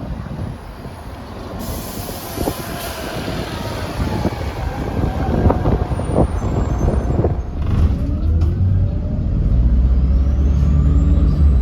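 Volvo B7RLE bus with a Volvo D7E diesel engine and Voith gearbox: a hiss of air near the start and some knocks and rattles, then about eight seconds in the engine pulls under load and a turbocharger whine rises steadily in pitch.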